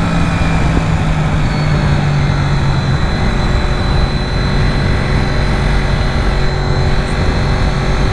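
Honda VFR750's V4 engine running at a steady road speed under way, with heavy wind noise on the microphone.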